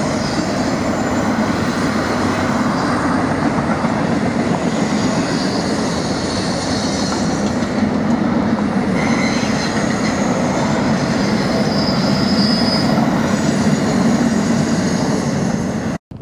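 Double-stack intermodal freight train's well cars rolling past: a steady rumble and rush of steel wheels on rail, with thin high wheel squeal coming and going as the cars take the curve. It cuts off suddenly at the very end.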